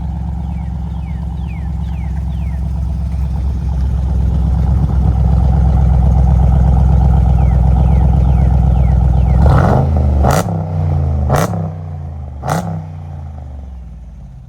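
Dodge Charger SRT8's Hemi V8 with the mufflers deleted, running loud and growing louder as it is revved up. Near the end there are three sharp cracks about a second apart, then the sound fades.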